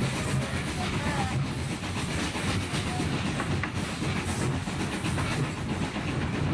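A train running along the track, a steady rumble with wheels clattering over the rail joints.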